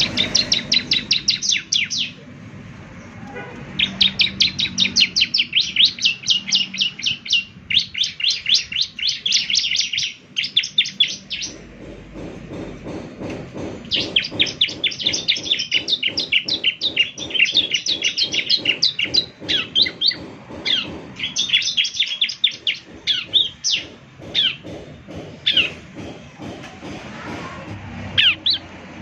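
Bar-winged prinia (ciblek) singing in fast trills of sharp, high chirps, about eight a second, in bouts of a few seconds separated by short pauses.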